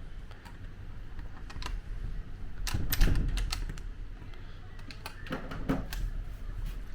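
Clicks, knocks and rattles of a hotel window's latch and handle being worked while someone tries to open it, bunched about three seconds in and again near five and a half seconds.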